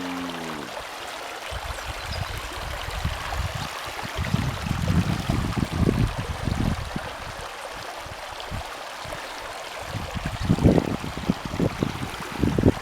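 Steady rush of rainwater, with gusts of wind buffeting the microphone that grow stronger near the end. A brief pitched tone dies away at the very start.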